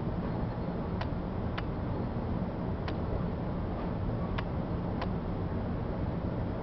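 Metra commuter train riding along the rails, heard from inside a passenger car: a steady low rumble with sharp clicks, some in pairs, as the wheels pass over rail joints.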